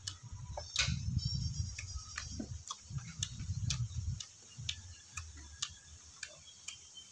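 A mouthful of tamarind being chewed close to the microphone: wet clicking mouth sounds over low, repeated thuds. The thuds die away about four seconds in, return briefly near five seconds, and scattered clicks carry on after them.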